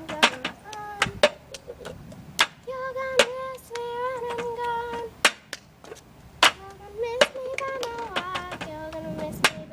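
A high voice singing short held notes, mixed with sharp claps or clicks.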